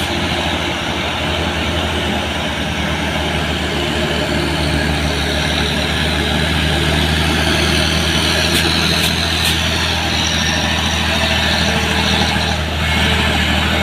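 Heavy diesel truck engine running steadily, growing a little louder over the first several seconds.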